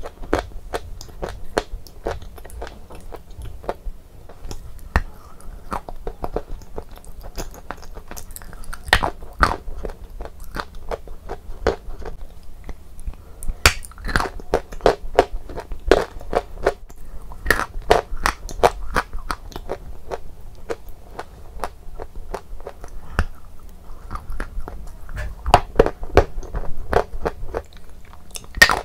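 Chunks of chalk dipped in wet clay paste being bitten and chewed: a run of sharp crunches that come in quick clusters, with short lulls between.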